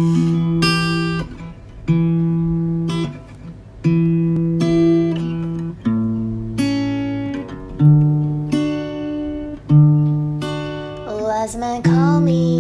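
Guitar intro: chords plucked about every two seconds, each left to ring and fade, with picked notes in between.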